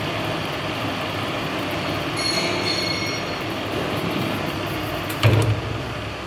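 Weller metal lathe running steadily, with a brief high squeal about two seconds in and a single loud clunk about five seconds in.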